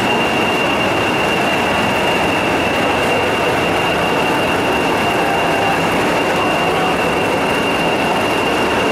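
A train standing at a station platform, running with a loud, even noise and a constant high-pitched whine throughout.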